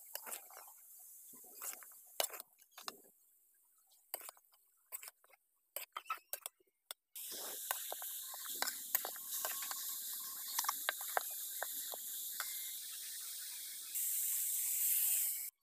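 Shredded cabbage frying in oil in a pan, with a spatula scraping and tapping against the pan. At first there are only scattered scrapes and clicks. About seven seconds in, a steady sizzle begins under the spatula strokes and grows louder near the end.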